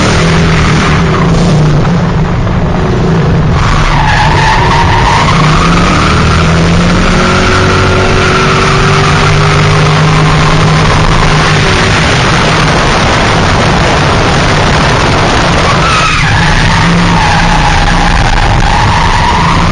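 2000 Ford Mustang drift car sliding under power: the engine runs hard and steady while the tyres squeal in long wavering squeals that rise and fall in pitch.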